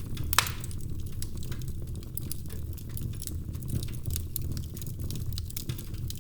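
Wood fire crackling in a fireplace: a steady low rumble of the flames with many small crackles, and one louder pop about half a second in.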